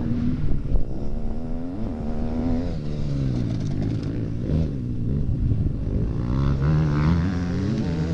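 Motocross motorcycle engines revving, their pitch rising and falling again and again with throttle and gear changes.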